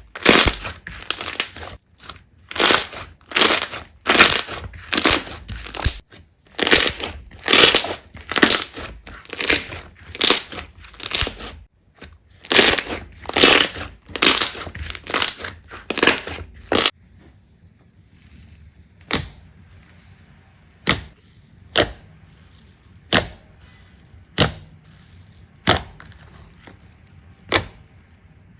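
Slime being squeezed and pressed by hand, with noisy squishes about two a second. About two-thirds of the way in it changes to single sharp pops or clicks, roughly one every second and a half.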